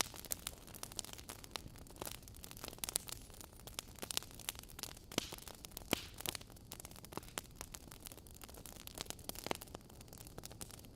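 Wood fire burning in a fireplace, logs crackling with irregular sharp pops, a few louder ones in the middle, over a steady soft hiss.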